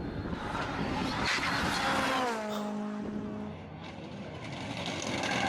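Rally car engine at speed: its note falls about two seconds in, holds steady for a moment, then dips quieter before the sound builds again near the end.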